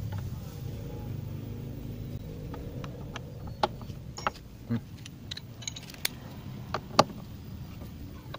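Scattered sharp metal clinks of a T40 Torx key and other hand tools working bolts on a Honda PCX scooter's rear brake, about half a dozen in the second half, over a steady low hum.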